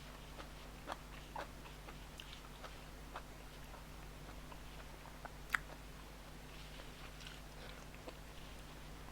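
A person eating: quiet chewing and mouth smacks with scattered small clicks, one sharper click about halfway through, over a faint steady hum.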